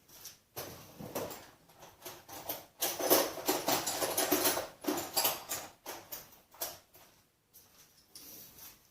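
Someone rummaging among hand tools for a socket: irregular metal clicks, knocks and scraping, busiest about three to five seconds in.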